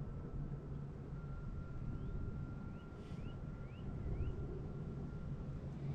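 Electric trolling motor running with a steady low hum and a thin high whine under wind rumble on the microphone; the whine cuts out near the end. Four short rising chirps sound in the middle.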